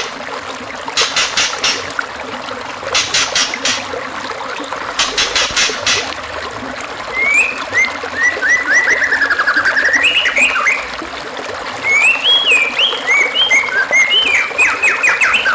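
Songbird song on a masteran training track: three short, rapid chattering bursts about two seconds apart, then from about halfway on varied whistled phrases with sliding notes and fast trills. Running water trickles behind.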